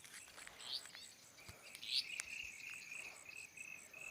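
Crickets chirping faintly in a steady high pulse of about five chirps a second; a second, lower pulsed chirping joins about a second and a half in, after two short rising calls.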